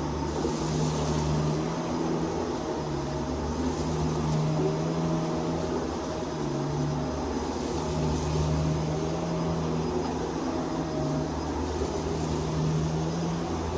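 Vacuum cleaner running steadily while vacuuming, a constant motor hum.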